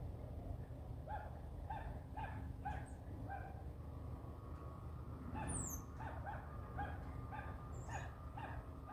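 Birds calling: runs of short, repeated pitched notes, about three a second, with a single high descending whistle about five and a half seconds in.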